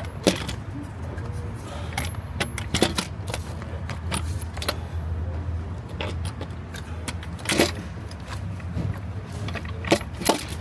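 Scattered metallic clinks, clicks and light knocks of hands and tools working on engine parts and connectors under the hood, a few sharper knocks standing out, over a steady low hum.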